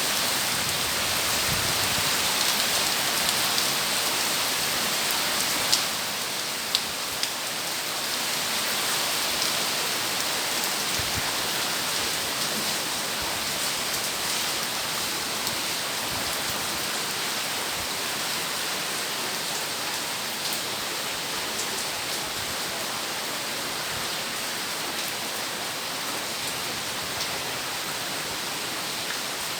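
Heavy rain falling steadily, an even hiss of drops on surfaces, with a few sharp drop clicks about six to seven seconds in.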